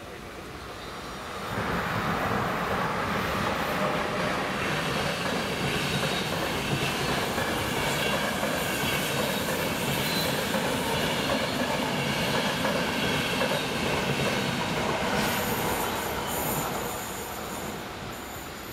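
Passenger train passing over a level crossing, its wheels running on the rails. The noise rises sharply about a second and a half in, stays steady and loud, and fades away near the end as the train clears the crossing.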